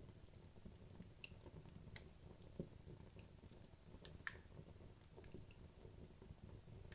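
Wood logs burning in a fireplace: faint crackling with scattered small pops and ticks over a low hiss of flame, the sharpest pops about two and a half and four seconds in.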